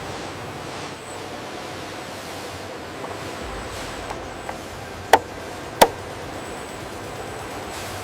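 Steady workshop noise with a few light ticks, then two sharp clicks or knocks a little under a second apart past the middle.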